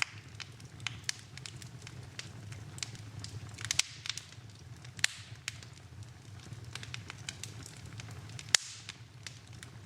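Wood fire burning in a fireplace, crackling with irregular sharp pops over a low steady rumble; two louder pops stand out, one about halfway through and one near the end.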